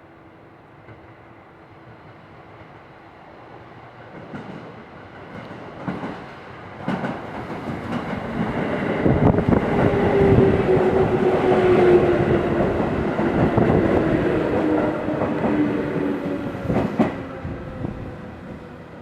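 An electric train on the Tokaido Main Line passing close by. It grows louder, with wheels clattering over rail joints and a humming tone that falls slowly in pitch, then fades away near the end.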